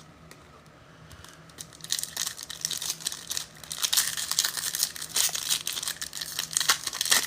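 Trading-card pack wrappers crinkling and tearing as packs are opened and the cards handled. It starts faintly and becomes a dense crackle about two seconds in.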